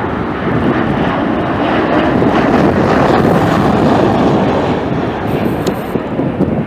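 Jet airliner engines giving a steady, broad roar as a plane passes near the airport, with wind buffeting the microphone.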